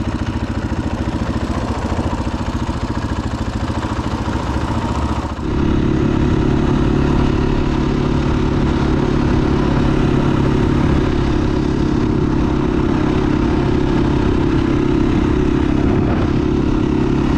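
Single-cylinder four-stroke engine of a 2021 KTM 500 EXC-F dirt bike idling at a steady pitch. About five seconds in it briefly dips, then runs on louder and steadier.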